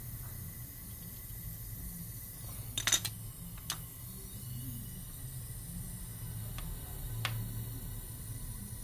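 A few sharp metal clinks, like hand tools being picked up and set down: a quick cluster about three seconds in, one more near four seconds and two around seven seconds. A steady low hum runs beneath them.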